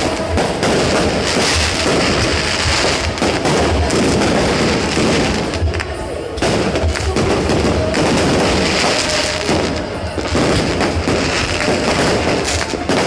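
New Year fireworks going off continuously: many overlapping bangs and crackles, easing briefly twice.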